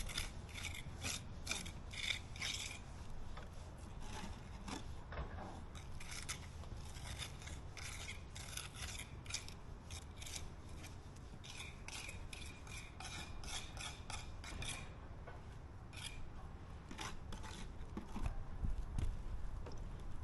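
A hand tool scraping or rasping against a surface in quick, irregular strokes, thinning out near the end.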